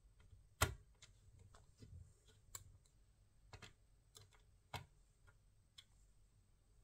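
Scattered light clicks and taps, about six in all at uneven intervals, the loudest about half a second in: small hard parts being handled and set down.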